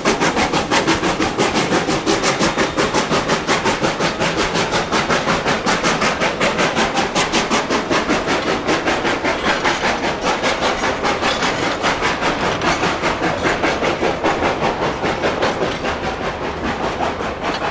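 2-8-0 steam locomotive working steadily, its exhaust chuffing in rapid, even beats, about five a second, that grow slightly softer and duller in the second half.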